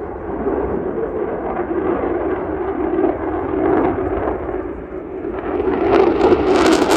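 Boeing F-15QA fighter jet's twin engines roaring as it flies past, the roar growing louder and harsher near the end.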